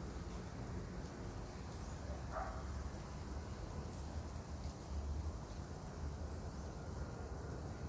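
Common marmosets giving a few short, very high-pitched chirps, spaced out over a steady low rumble.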